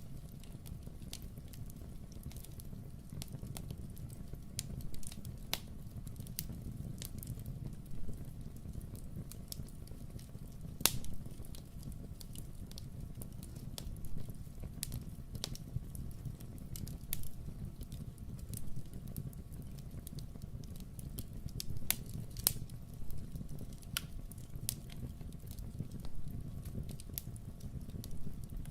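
Wood fire burning in a fireplace: a steady low rumble with irregular sharp crackles and pops, the loudest pop about 11 seconds in.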